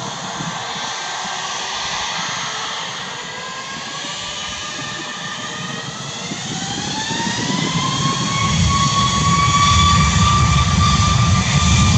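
Boeing 737 MAX 8's CFM LEAP-1B turbofan engines spooling up: a whine rises in pitch over a few seconds and settles into a steady high tone. About eight seconds in, a low rumble builds and the sound grows louder, as at the start of the takeoff roll.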